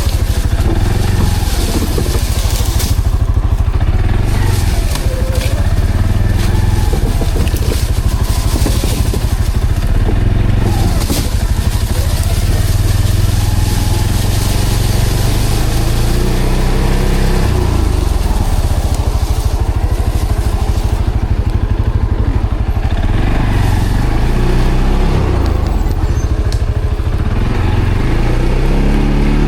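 ATV engine running continuously under way off-road, its note shifting up and down with the throttle.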